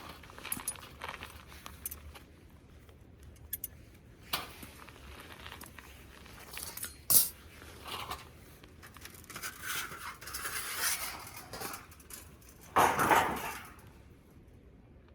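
Objects being handled: scattered clicks and clinks, a sharp knock about seven seconds in, a stretch of rustling, and a louder scraping rustle near the end.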